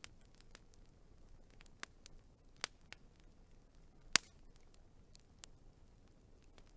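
Wood fire crackling: scattered sharp pops and snaps from burning logs over a faint hiss, the loudest pop about four seconds in.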